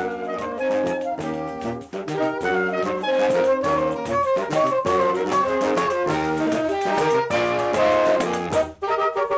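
Saxophone quartet of soprano, alto, tenor and baritone saxophones playing an upbeat Brazilian arrangement over a steady percussion beat; the lowest line drops away near the end.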